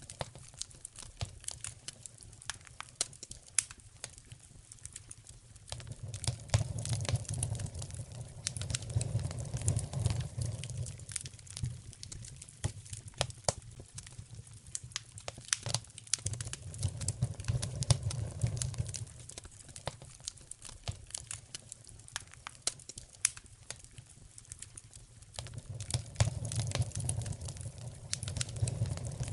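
Wood fire in a fireplace crackling, with many sharp pops and snaps. Under them a low rumble of the flames swells and fades three times, roughly every nine seconds.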